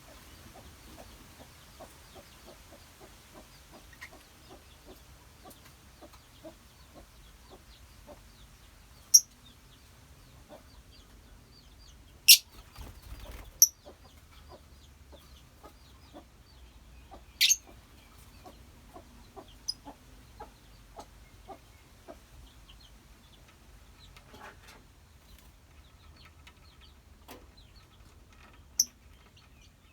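A colony of lovebirds chattering: a steady run of soft, quick clicking calls, broken by about six sharp, shrill shrieks that stand well above the rest.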